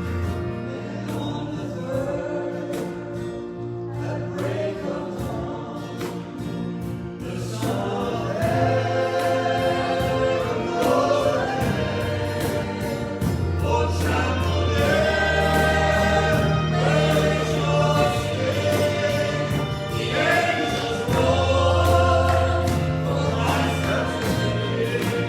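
Church congregation singing a worship hymn with instrumental accompaniment, swelling louder about eight seconds in.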